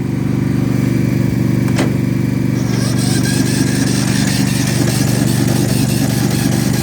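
A riding mower's electric starter cranks the engine over and over from about three seconds in without it catching, over the steady running of an engine; the owner takes the failure to fire for the engine being out of gas, probably. A single sharp click comes just before the cranking.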